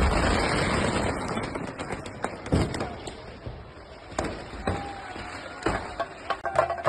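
Loud noisy din of firecrackers going off, dying away over the first few seconds, followed by a handful of separate sharp cracks and faint voices.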